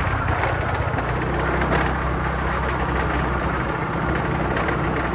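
A vehicle engine running at a steady pace, its low hum under wind and road noise, as heard while riding.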